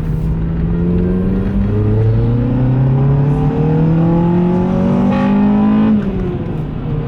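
Car engine accelerating through the gears of a manual gearbox: the engine note rises, drops at a shift about two seconds in, climbs steadily again, and falls quickly near the end as the revs come down for the next shift. The owner thinks the engine has a lightened flywheel, which lets the revs drop faster.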